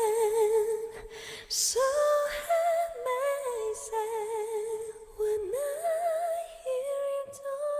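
A woman's solo voice singing a slow melody unaccompanied, with vibrato on the held notes.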